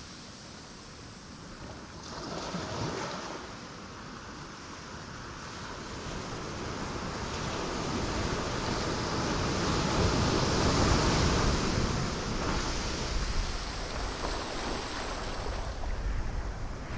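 Ocean waves breaking on rocks: a steady wash of surf, a small wave about two seconds in, then a bigger wave that builds to its loudest around the middle and slowly eases off.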